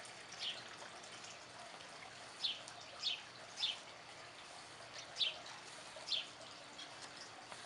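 A bird calling outdoors: about six short, sharp chirps that fall in pitch, spaced unevenly, over a steady faint background hiss.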